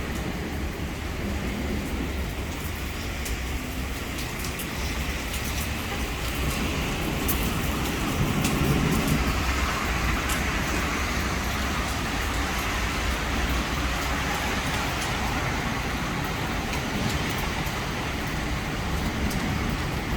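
Heavy thunderstorm rain pouring steadily, with drops ticking sharply on a nearby surface over a constant low rumble that swells briefly about eight seconds in.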